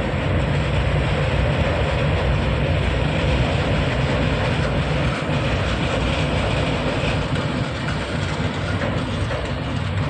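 Indian Railways LHB passenger coaches of a superfast express passing at speed, their wheels running on the rails in a steady, loud rumble.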